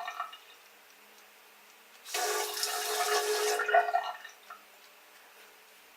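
Water tap running into a sink for about two seconds, starting about two seconds in and stopping abruptly, in a small bathroom.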